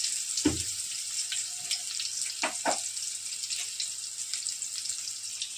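Chopped onion and green chillies frying in hot oil in a kadhai: a steady sizzle with small crackles. A dull knock comes about half a second in, and two sharper clicks come near the middle.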